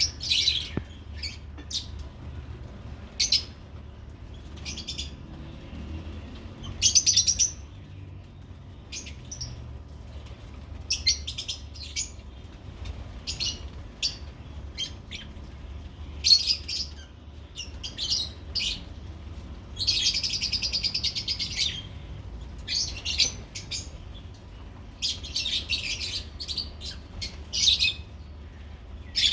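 Lovebirds chirping in many short, high-pitched calls, with a longer rapid chattering call about twenty seconds in.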